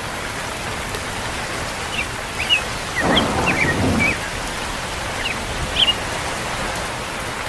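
Steady rain, with a brief low rumble of thunder about three seconds in and a scattering of short, high chirps.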